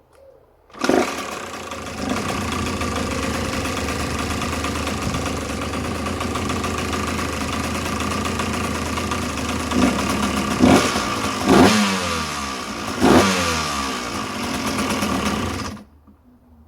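Freshly rebuilt KTM SX 150 single-cylinder two-stroke engine fires up about a second in and runs steadily, then is revved sharply three or four times before cutting off suddenly near the end.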